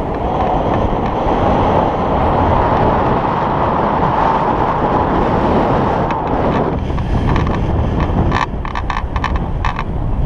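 Wind buffeting the microphone in a loud, steady rush, with a run of short rustles and knocks in the second half.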